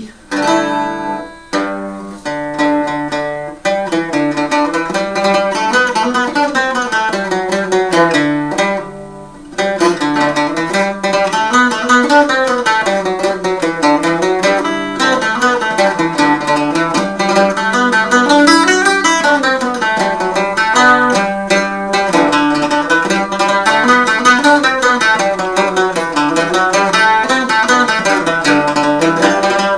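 Restored Bohm waldzither converted to an Irish bouzouki, eight strings in four pairs tuned G D A E, being plucked. A few notes ring out first, there is a brief pause about nine seconds in, then quick runs of single notes rise and fall continuously.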